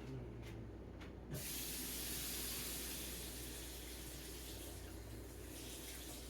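Kitchen tap turned on about a second in, water running steadily.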